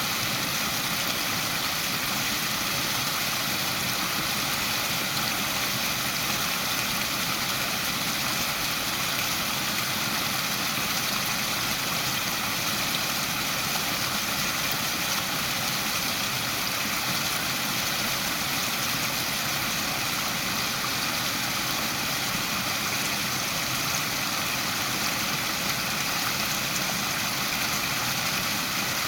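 Waterfall: a steady, unbroken rush of falling water, a hiss strongest in the upper range.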